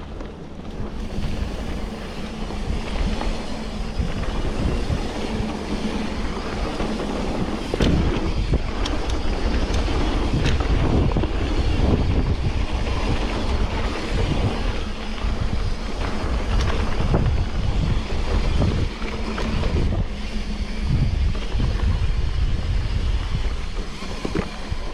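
Wind buffeting the microphone over the rumble and rattle of a bike riding a rough trail, growing louder and bumpier about eight seconds in.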